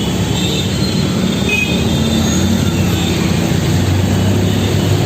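Loud, steady low rumble of heavy road traffic and large engines, with faint high squeals here and there.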